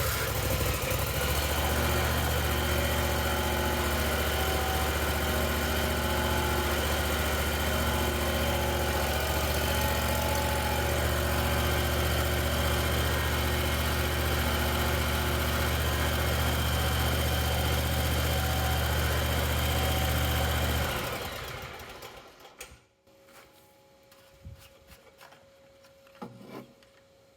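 John Deere Z960M zero-turn mower engine catching and running steadily on fresh oil after an oil change, then shut off about 21 seconds in and dying away.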